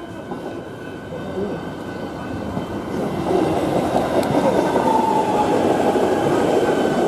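Electric suburban train running through a station: a steady rumble of wheels on rails that grows louder about three seconds in, with a faint steady high whine over it.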